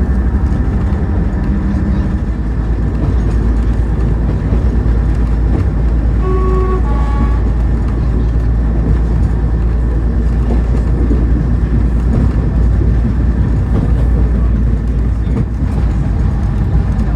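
Class 121 diesel railcar under way, heard from on board: a steady low engine and running rumble. A brief two-note tone sounds about six seconds in.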